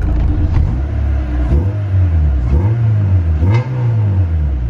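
Honda B16A four-cylinder engine of a Civic EG hatchback revved twice from idle, heard from inside the cabin. Each rev rises and falls in pitch.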